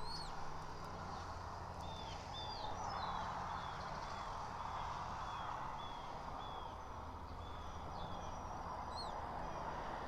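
A small bird calling a run of short, down-slurred whistled notes, about two a second, for several seconds, with a couple of rising notes near the start and end. The calls sit over a steady background rush.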